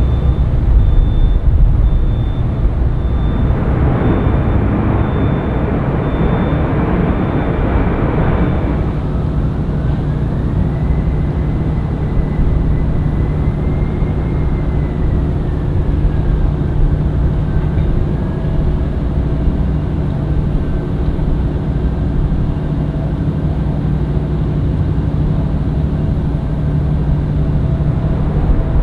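Jet airliner engines running: a loud rush of jet noise for the first several seconds, then a steadier engine sound with a low hum and a whining tone that rises, holds, then slowly drops.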